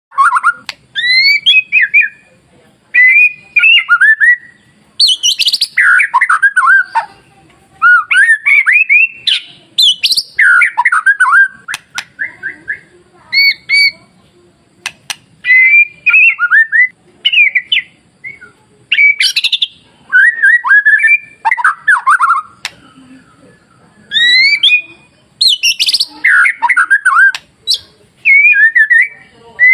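White-rumped shama (murai batu) singing: loud, varied phrases of clear sliding whistles and quick warbled notes, each a second or two long with short pauses between, and a few sharp clicking notes.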